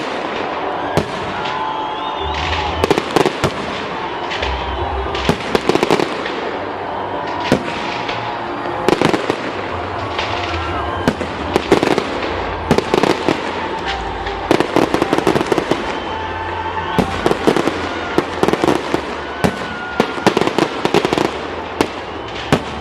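Fireworks display: shells bursting in quick volleys of sharp bangs and crackles, clusters coming every second or so throughout.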